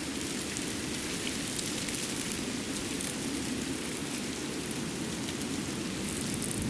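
Winter forest ambience after fresh snowfall: a steady rushing noise, with scattered faint high ticks through it.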